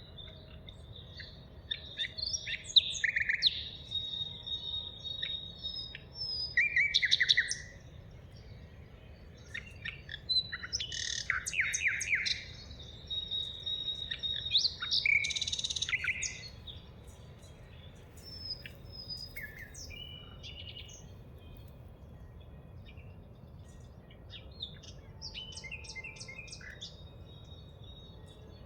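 Several songbirds singing and calling: short high chirps, quick trills and whistled notes overlapping, busiest in the first half and thinning out after about sixteen seconds.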